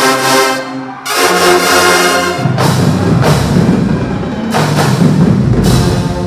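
Marching band brass playing loud held chords, cutting off and re-entering about a second in. From about two seconds in, heavy drums and low brass join.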